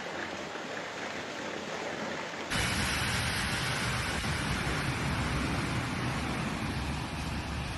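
Hail and heavy rain falling hard, a dense steady hiss. About two and a half seconds in, it cuts to a louder stretch with a deeper rumble underneath, which stops abruptly at the end.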